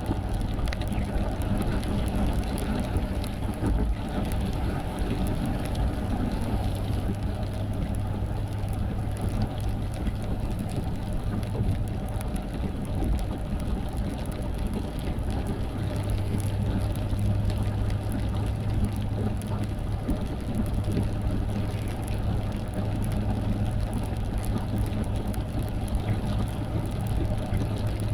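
Steady engine hum and tyre and road noise heard from inside a moving car. The low hum eases off briefly about halfway through, then comes back.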